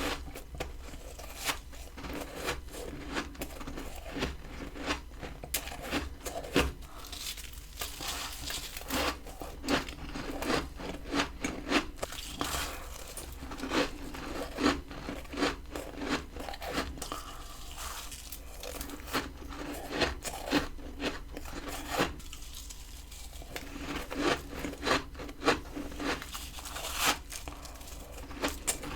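Close-up crunching of a person biting and chewing humidifier freezer frost: a steady run of irregular crisp crackles and snaps, a few bites louder than the rest.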